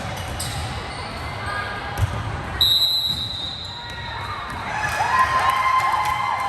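Volleyball match in a gym hall: a few sharp thuds of the ball being hit and landing, a steady high whistle tone that starts about two and a half seconds in, then squeaks and voices near the end.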